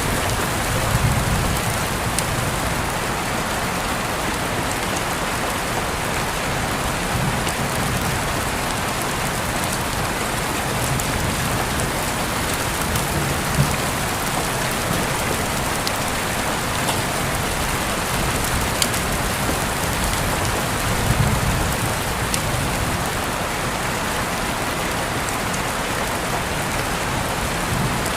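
Steady rain falling, an even hiss with the occasional sharper tick of a single drop landing.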